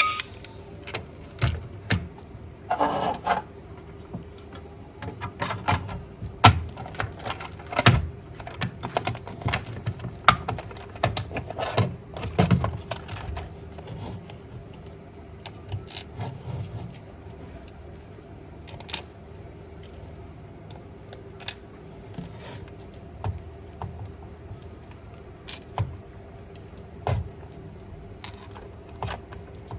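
Small plastic parts of a toy car being handled and taken apart: irregular clicks, taps and light knocks, busiest in the first half and sparser later, over a faint steady hum.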